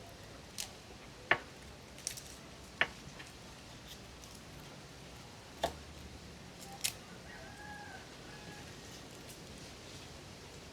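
Scattered sharp clicks and light knocks, about six over ten seconds, with a faint short tone in the middle, like small objects being handled.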